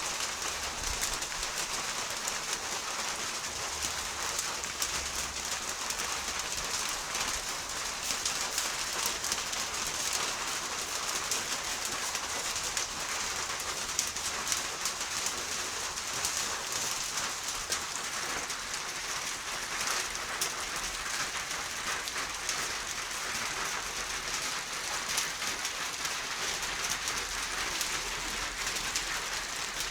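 Steady rain falling, with many individual drops ticking as they strike close by.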